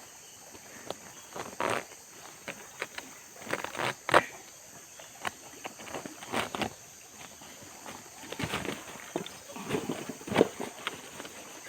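Irregular short rustles and knocks, the sharpest about four seconds in, over a steady high insect chorus of the tropical forest.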